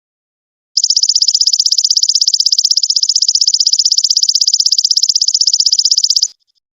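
Belalang emas ('golden locust') insect call: a rapid, evenly pulsed, high-pitched buzzing trill that starts about a second in and stops abruptly near the end.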